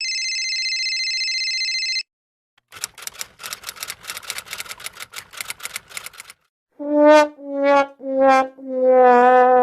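Three sound effects in a row: a steady high tone for about two seconds; then rapid typing clatter, like a typewriter or keyboard, for about three and a half seconds; then the 'sad trombone' gag, four brass notes stepping down in pitch, the last one held with a wobble.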